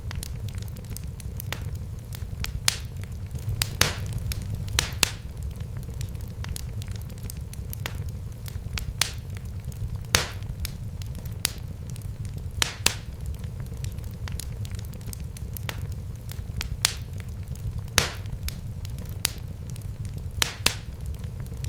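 Fire crackling in a fireplace: sharp, irregular pops every second or two over a steady low rumble of the flames.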